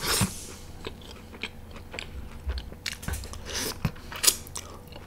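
A person biting and chewing food close to the microphone: a run of irregular small wet clicks with a few louder bites.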